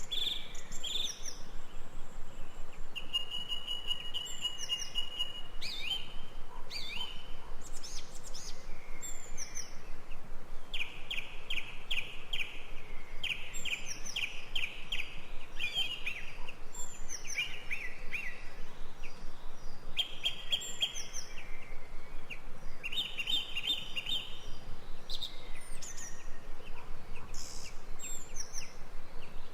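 Several wild birds calling and singing: quick chirps, rapid trilled phrases and a held whistled note, over a faint steady hiss of background noise.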